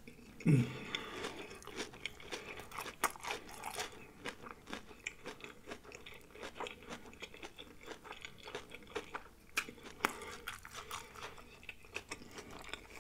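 Close-miked chewing of crispy battered fried shrimp: a steady run of small wet crunches and clicks. About half a second in there is a short falling hum from the eater, the loudest sound.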